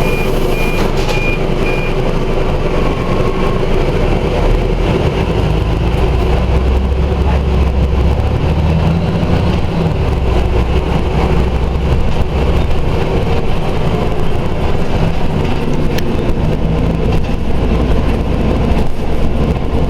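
Scania OmniDekka double-decker bus running, a steady low engine rumble that strengthens and deepens about four seconds in and stays heavy after that. A short series of high beeps sounds in the first couple of seconds.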